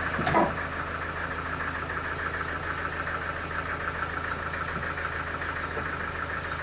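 An engine idling steadily with a fast, even pulsing. A single sharp knock sounds about a third of a second in.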